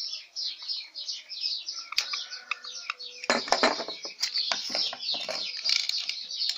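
Small birds chirping rapidly and without pause. From about three seconds in there is a run of sharp clattering knocks from hand work on the wooden bench, the loudest sounds, plus a single click at about two seconds.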